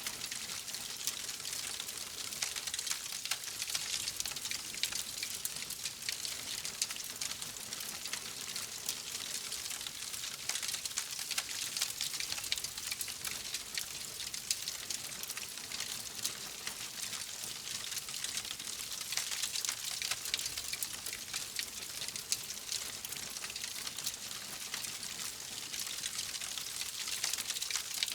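Wood fire in a fireplace crackling steadily: a dense bed of hiss and fine crackles with scattered louder pops.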